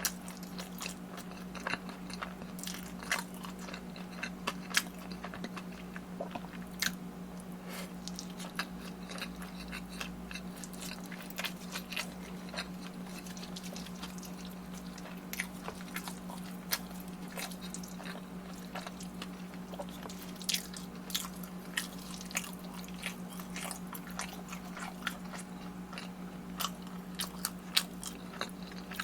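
Close-miked chewing and biting of food, with many short sharp crunching and sticky clicks at an irregular pace, over a steady low hum.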